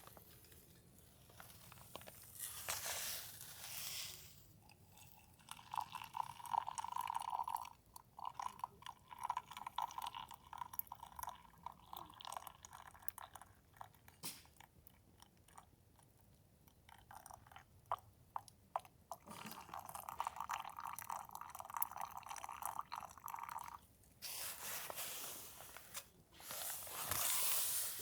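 Close-up crunching with many small sharp clicks, and a few brief hissy swells near the start and end.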